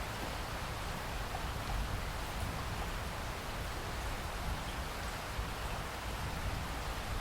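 Steady rain falling, an even hiss with a constant low rumble beneath it.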